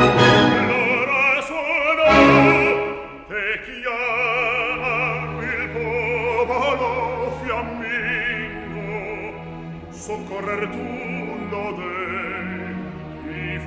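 Opera music with orchestra: a melody with wide vibrato over sustained low notes, dipping briefly in loudness about three seconds in.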